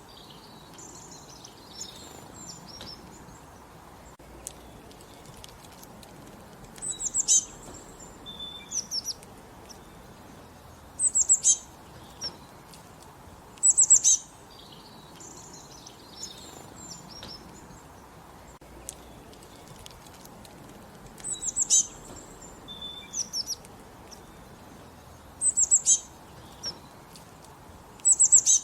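Songbirds singing: short, high, rapid trilled phrases repeated every few seconds, over a steady faint background hiss.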